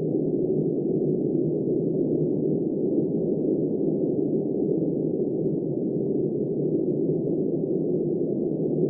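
Steady, muffled rushing of wind, deep and dull with no high hiss and no gusts.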